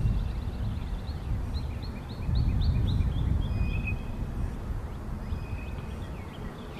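A songbird singing a run of quick repeated chirps that slow into a few separate upswept notes, then scattered single calls, over a low, uneven rumble.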